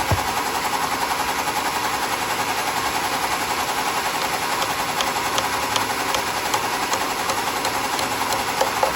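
Sawmill machinery running steadily with a fast, even mechanical chatter, and a few faint ticks over it.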